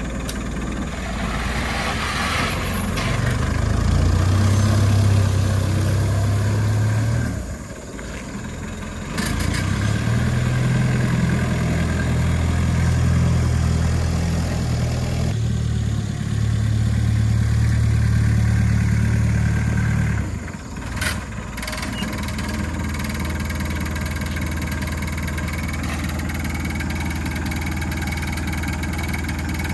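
Agricultural vehicle's engine running, working harder for two long stretches with a brief easing between them, then settling to a steady idle for the last third.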